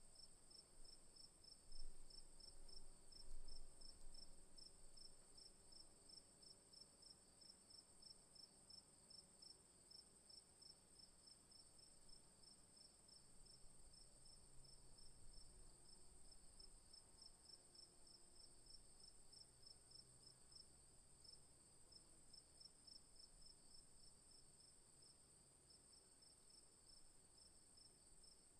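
Crickets and other insects calling: a faint, steady high trill with a second, pulsing chirp repeating about three times a second just below it. Two low bumps about two and three and a half seconds in.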